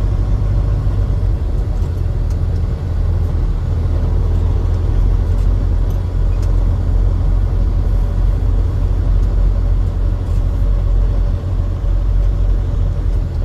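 Truck rumbling steadily, with the energy deep in the low end and a faint steady hum above it.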